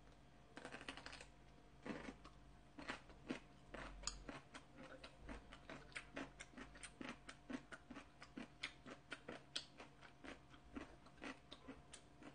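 A person chewing a mouthful of food, close to the microphone: soft, quiet mouth clicks at about three a second.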